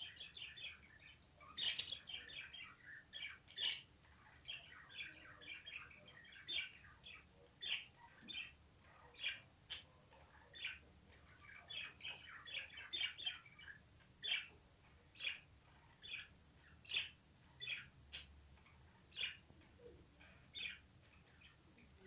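Pet parrots chirping in short, high calls. The calls come in quick clusters at first, then thin out to single chirps about once a second.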